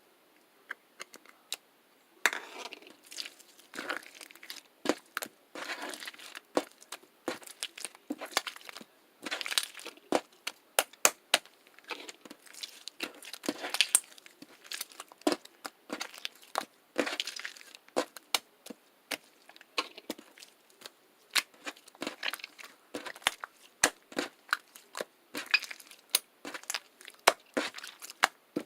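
Irregular crinkling and crackling with many sharp clicks, starting about two seconds in.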